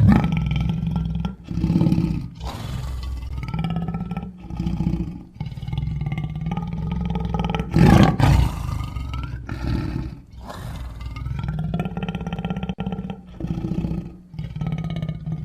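Smilodon sound effects built from big-cat calls: a run of growls and roars, one after another with short breaks, the loudest about halfway through.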